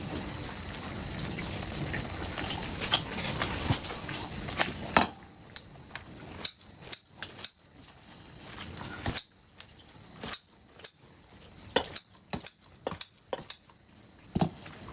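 Irregular sharp clicks and clinks of small hard objects. They come over a steady hiss at first, then stand out alone from about five seconds in, a few a second.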